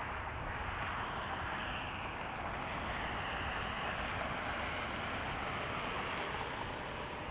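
Jet airliner engines running, a steady noise with a faint whine shifting in pitch, while gusty wind buffets the microphone with a low rumble.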